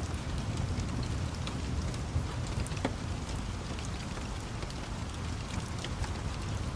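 Steady rain with a constant low rumble underneath, dotted with scattered sharp crackles and pops from a wood fire.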